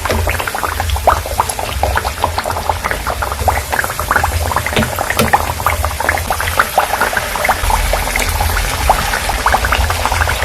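Carrot fritters deep-frying in hot oil: a dense, steady sizzle and crackle of many small pops as the batter cooks, with a low hum underneath.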